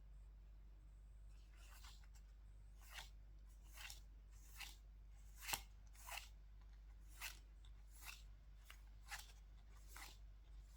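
Pokémon trading cards being slid one by one through the hand: about a dozen faint, soft swishes, roughly one a second, one of them a little louder about halfway through.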